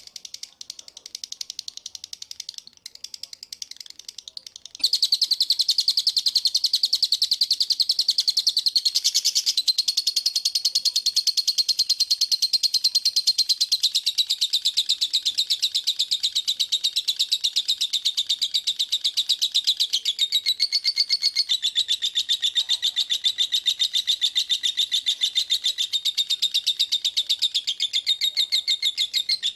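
A songbird singing a very fast, dense, high-pitched trill of rapid repeated notes, the kind of 'speed rapat' song used as a master track to train cage birds. It is softer and broken for the first few seconds, then turns loud about five seconds in and runs on without pause, shifting pitch a few times.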